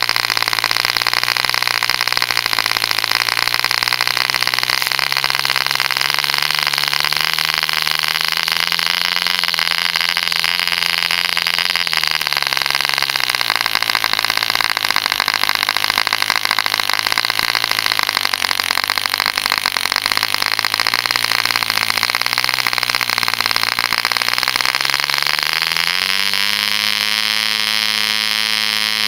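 Boddo copy of a Mills 0.75 cc two-stroke model diesel engine running with a steady, buzzy drone. Its speed rises and falls back a little early on, then climbs sharply about 26 seconds in and holds at the higher speed.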